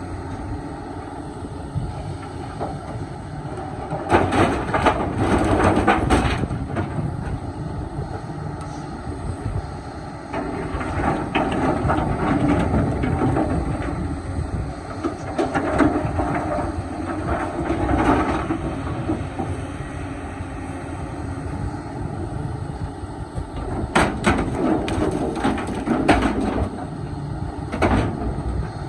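Excavator diesel engine running steadily, with several loud spells of clattering and knocking: about four seconds in, again through the middle, and near the end.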